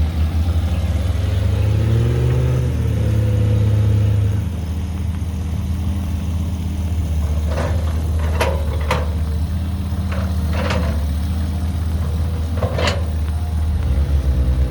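Caterpillar 312B excavator's diesel engine running; it rises in pitch under load for about two seconds, then settles back. Five sharp knocks come in the second half.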